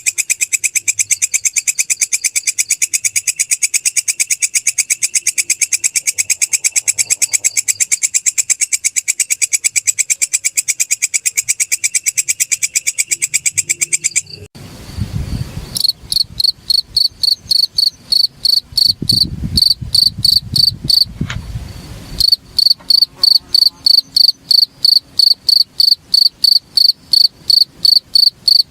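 Orthopteran insects stridulating. A very fast, continuous buzzing trill stops abruptly about 14 seconds in. After a short stretch of low rumbling noise, a cricket chirps at a steady beat of about two to three high chirps a second.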